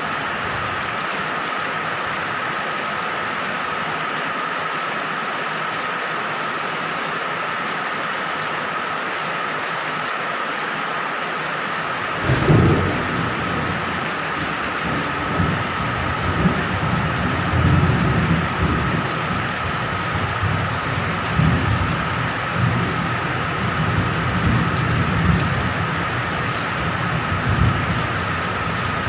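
Steady heavy rain falling. About twelve seconds in, thunder breaks in suddenly and then keeps rolling in low rumbles that swell and fade.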